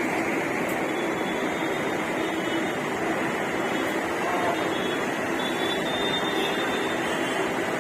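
Steady rumbling rush of a Mumbai suburban local train running at the platform, even in level throughout.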